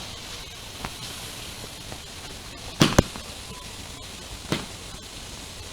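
A few sharp percussive hits: a faint one about a second in, two loud ones in quick succession near the three-second mark, and another about a second and a half later. They are made close to the light-strip controller's microphone to set off its sound-activated music mode.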